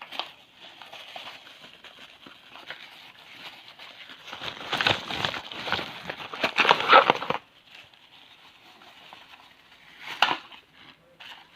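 Packaging crinkling and rustling as it is handled. It is loudest for about three seconds in the middle, with a short sharp rustle near the end.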